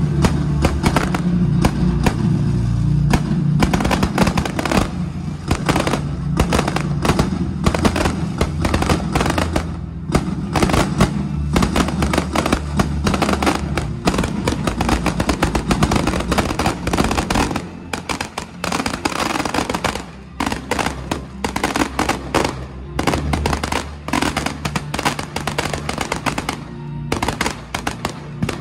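Aerial fireworks going off in rapid succession: a dense run of bangs and crackles that thins out about two-thirds of the way through, with music playing underneath.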